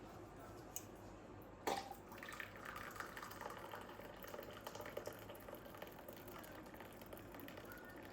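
A sharp click, then water running and splashing steadily.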